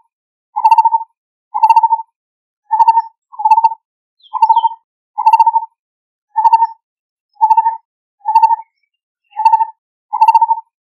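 Lineated barbet calling: a steady series of short, low notes repeated about once a second, now and then two in quick succession.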